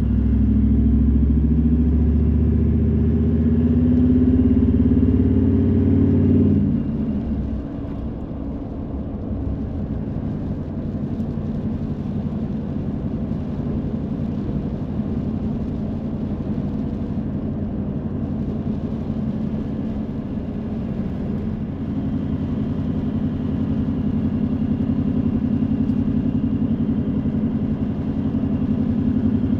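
Car engine pulling under load for about six seconds, its pitch rising slightly, then dropping away suddenly to a quieter, steady low drone of engine and road noise while driving.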